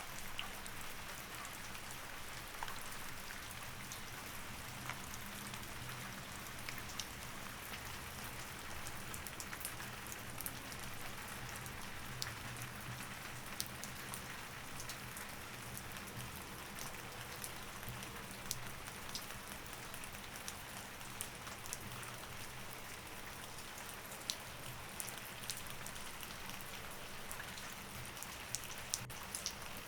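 Steady rain falling, with individual drops ticking sharply on a hard surface here and there, over a faint low steady hum.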